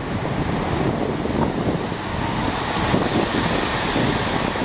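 First Great Western High Speed Train (Class 43 HST set) running past close by on the near line: a steady rumble of the train mixed with wind noise on the microphone.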